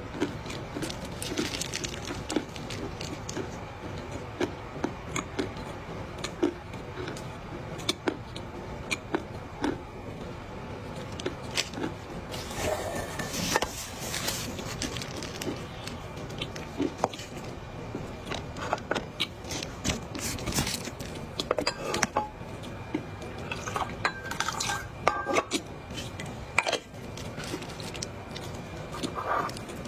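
Dry clay being chewed with a mouthful, close to the microphone: a continual run of sharp, irregular crunches and crackles, thicker in a few clusters.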